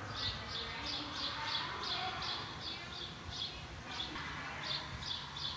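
A small bird chirping over and over: short, high chirps about two to three a second, unevenly spaced.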